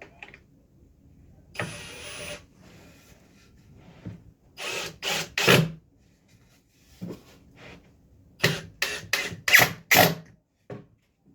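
Power drill driving screws into wood: one longer run about a second and a half in, then short trigger pulls, three in quick succession near the middle and five more near the end.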